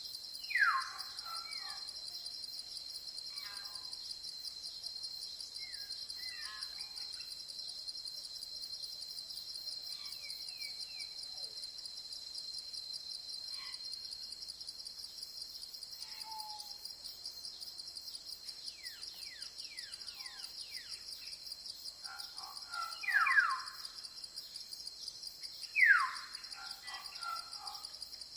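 A steady, rapidly pulsing chorus of crickets or similar insects, joined by scattered bird chirps. A few loud, sharp calls slide quickly downward in pitch: one right at the start and several near the end.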